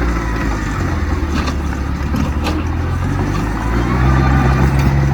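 Heavy diesel engine of earthmoving machinery running steadily, getting louder about four seconds in, with a few short sharp knocks.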